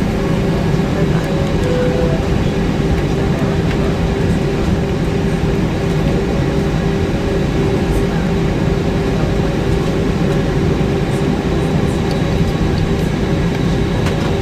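Steady cabin noise inside an Airbus A320-232, its IAE V2500 engines running at low power before takeoff, with a constant low hum and a steady higher drone.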